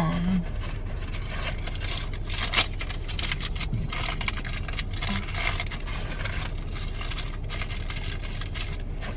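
Scraping, rustling and irregular clicking of items being handled, over a steady low hum.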